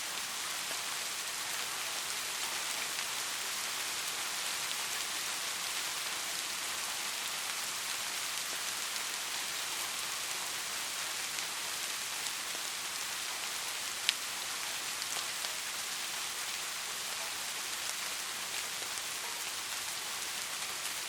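Steady soft rain falling, a dense even hiss with scattered drop ticks, and one sharper tick about two-thirds of the way through.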